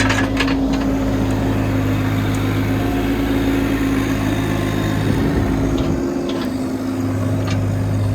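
IHI 30NX mini excavator engine running under work, a steady hum that eases off about five seconds in and comes back strong near the end. A few sharp knocks are heard right at the start.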